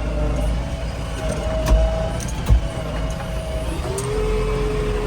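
Diesel engine of a JCB 3DX backhoe loader running while it works, its pitch shifting a little and a low rumble underneath, with two sharp knocks about halfway through.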